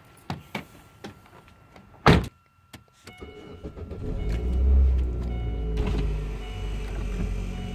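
A few light clicks, then a car door shuts with a loud thump about two seconds in; about a second later the car's engine starts, its rumble swelling, and settles into a steady idle.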